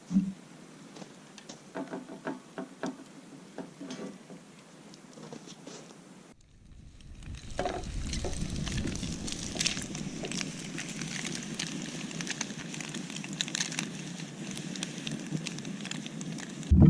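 Small wood fire crackling with scattered pops. After a sudden cut about six seconds in, a louder, denser crackle and sizzle runs on.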